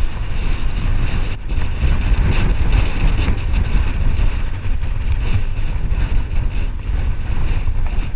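Wind buffeting the microphone with a steady low rumble, as on a camera carried at speed, with no distinct separate event.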